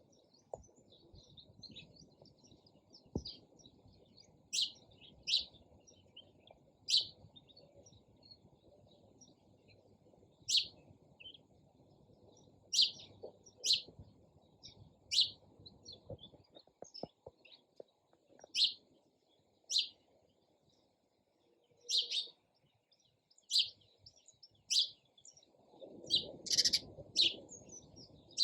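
Sparrows chirping: short, separate high chirps every second or two, over faint low background noise.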